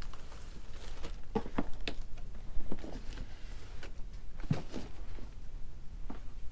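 Irregular light knocks and taps, about a dozen, the strongest about four and a half seconds in, over a steady low hum.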